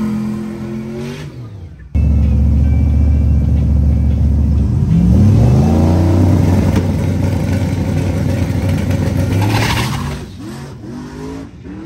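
Truck engines running and revving across a few abruptly cut clips. About five seconds in, one engine's pitch climbs steeply as it accelerates hard.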